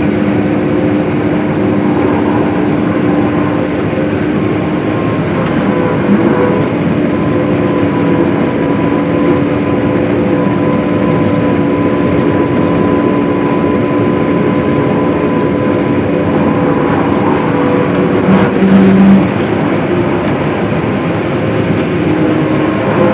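Case IH swather running steadily while cutting hay, a continuous machine drone with a few steady held tones. A short louder hum comes in about three-quarters of the way through.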